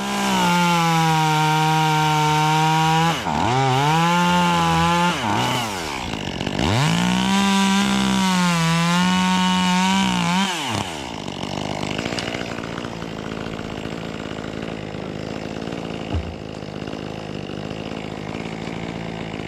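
Echo CS-2511T top-handle two-stroke chainsaw running at full throttle, its pitch dipping twice as the throttle is let off and opened again, then dropping to a steady idle about eleven seconds in.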